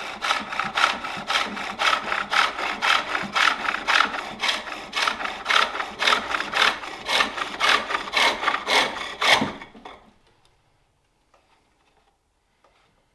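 Turning tool cutting a wooden bowl blank on a spring pole lathe, with rhythmic scraping strokes about two a second as the treadle drives the work back and forth. The cutting stops suddenly about three-quarters of the way through, leaving only a few faint knocks.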